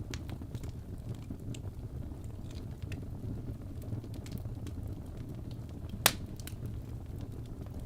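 Wood fire burning in a fireplace, with a steady low rumble and scattered small crackles, and one sharp loud pop about six seconds in.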